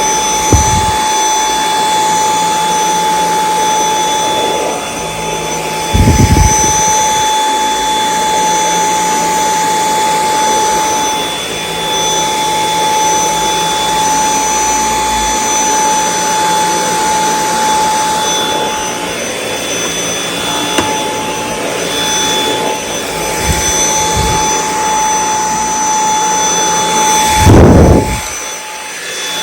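Dyson V8 Extra cordless vacuum cleaner running steadily on carpet, with a high motor whine over airflow rush. A few low bumps come through, the loudest near the end.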